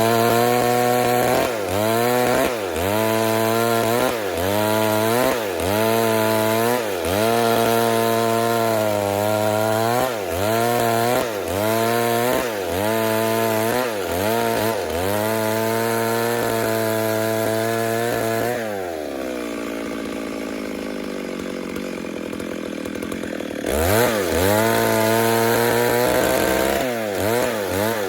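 Stihl MS 382 chainsaw running at high revs in a milling cut, its engine note dipping and recovering about once a second under load. About two-thirds of the way through it drops to idle for a few seconds, then revs back up and carries on cutting.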